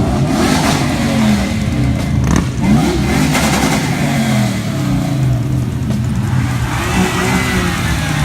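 A car engine being revved, its pitch rising and falling several times, with steadier running between the revs.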